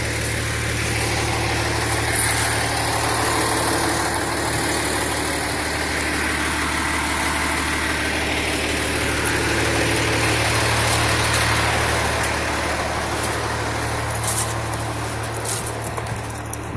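Large vehicle engine idling steadily, most likely the fire engine's diesel, with a constant low hum under a broad running noise.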